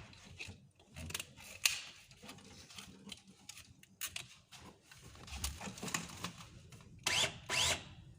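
Scattered clicks and knocks of a battery-powered plastic strapping tool being handled, then near the end two short bursts of its motor whirring up in pitch.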